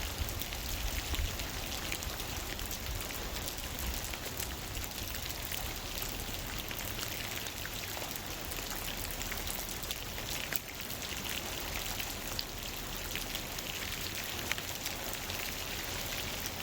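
Steady rain falling, with many separate drop hits heard close by.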